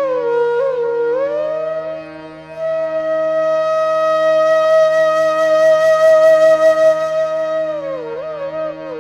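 Background flute music: a solo flute plays short ornamented turns, then a long held note that swells in the middle and falls back into quick turns near the end, over a steady low drone.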